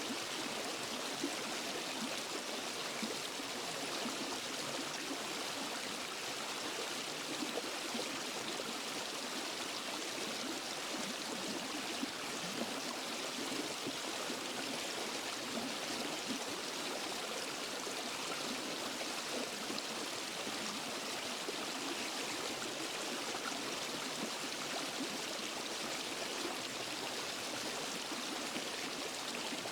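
Waterfall and forest stream: water falling and rushing over rocks in a steady, even hiss.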